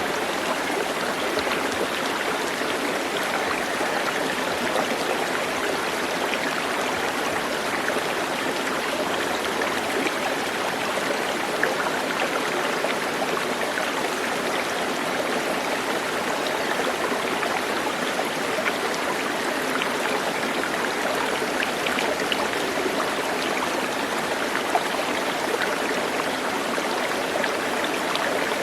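Steady rushing and trickling of a forest stream, an even sound with no change throughout.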